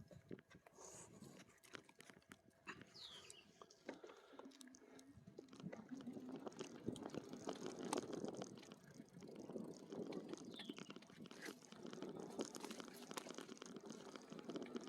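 Faint, irregular crunching and crackling of e-bike tyres rolling over a sandy trail, with two short high chirps.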